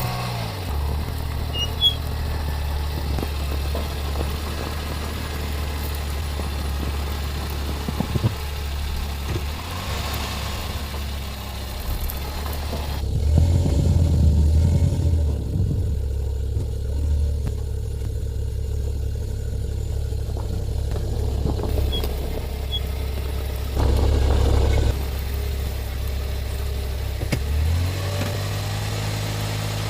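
A steady low rumble, swelling louder for a few seconds about thirteen seconds in and again briefly near twenty-four seconds.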